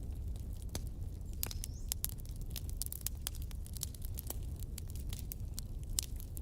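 Fire in a fireplace crackling: irregular sharp pops, several a second, over a steady low rumble of the flames.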